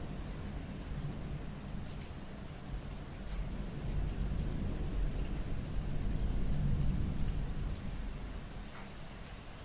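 Steady rain with scattered drop ticks, under a low rolling rumble of thunder that swells midway and eases off near the end.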